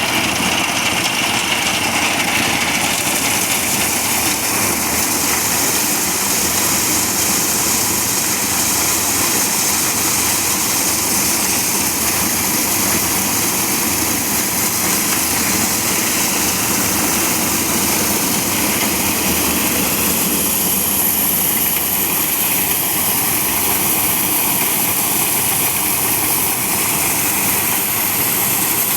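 Engine-driven corn thresher running steadily, a loud, even mechanical noise that holds unchanged throughout.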